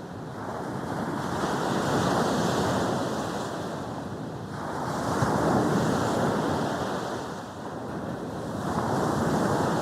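Sea waves breaking on a beach, the surf swelling and fading in three surges a few seconds apart.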